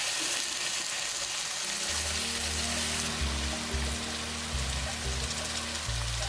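Food sizzling in a pan, an even hiss. About two seconds in, background music with a low bass line comes in over it.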